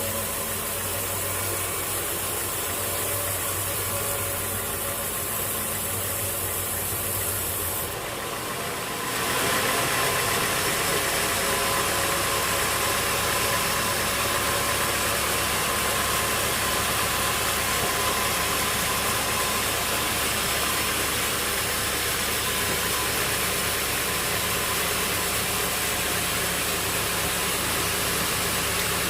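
Sawmill machinery running steadily with an engine note and noisy mechanical hum. About eight seconds in, the sound changes abruptly to a louder, brighter, steady machine noise.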